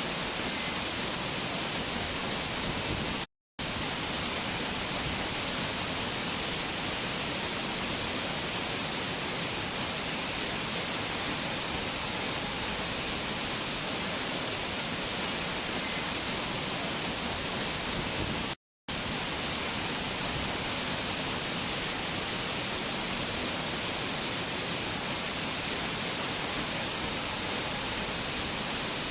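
Waterfall rushing as a steady, unchanging wash of water noise. It cuts out to silence for a split second twice: a little over three seconds in and again about two-thirds of the way through.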